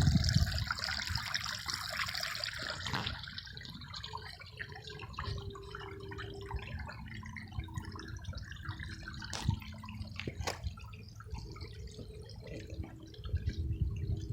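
Water pouring down a small garden waterfall into a pond, splashing and trickling at the pump's full flow of about 940 gallons an hour. The splashing is loudest for the first three seconds, then settles to a quieter steady trickle.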